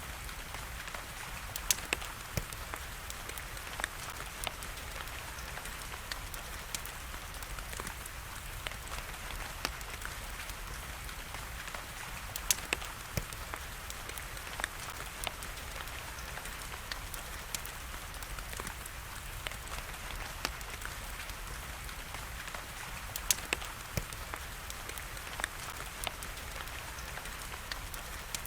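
Steady hiss of rain with a wood fire crackling over it in scattered, irregular sharp pops, a few of them louder.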